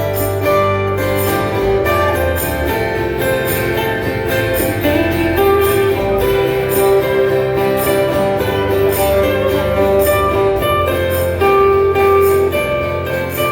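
Acoustic rock band playing live, with acoustic guitars strumming a steady rhythm through an instrumental passage without singing.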